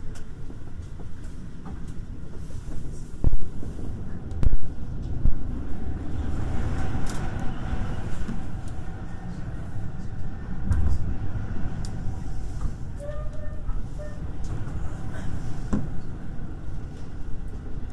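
Electric commuter train running on the rails, heard from inside the leading car: a steady low rumble of wheels on track, with sharp clacks about three seconds in, again a second later, and once more near the end.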